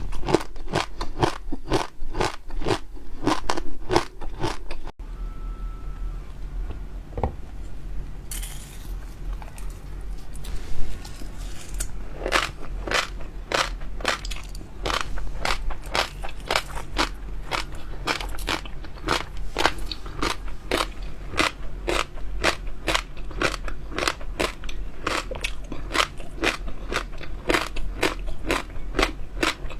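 Close-miked chewing of crunchy popping jelly pearls with water chestnut inside, a quick run of crisp crunches about three a second. The crunching stops after an abrupt cut about five seconds in and starts again several seconds later.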